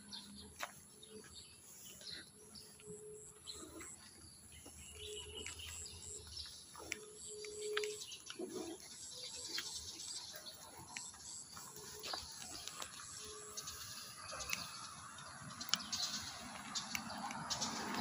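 Birds calling: a lower short note repeated several times in the first half, and quick high chirps through the second half. An even hiss grows louder near the end.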